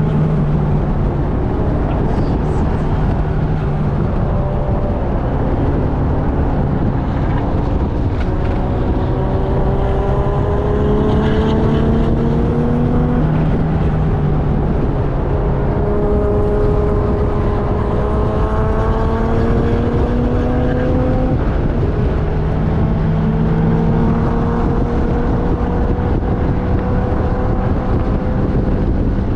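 Onboard sound of a vehicle's engine at speed on a race track, its pitch climbing in three long pulls and dropping back between them, over a steady rumble of wind and road noise.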